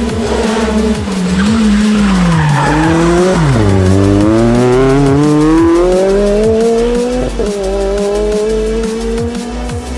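Rally car engine slowing with revs falling to a low point about three and a half seconds in, then accelerating hard with revs climbing steadily, a quick upshift about seven seconds in, and climbing again.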